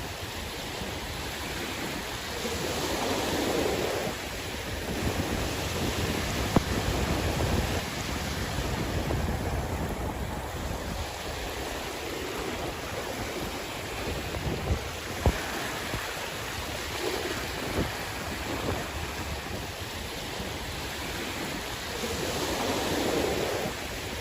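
Sea waves washing in and drawing back in slow swells, with wind rumbling on the microphone.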